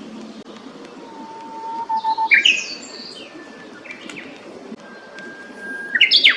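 A songbird singing two phrases, each a long steady whistle followed by a quick run of higher notes.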